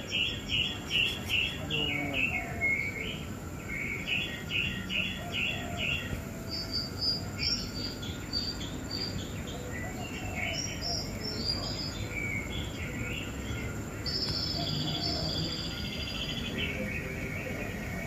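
Several birds chirping in quick runs of short repeated notes, some high and thin, over a steady low background noise.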